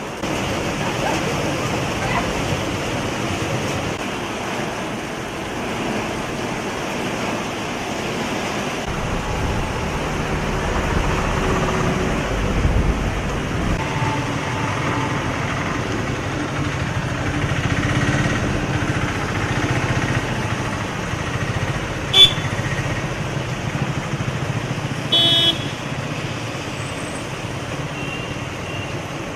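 Street traffic: vehicles running past, with a heavier vehicle passing close in the middle. A sharp click is followed a few seconds later by a short horn toot near the end.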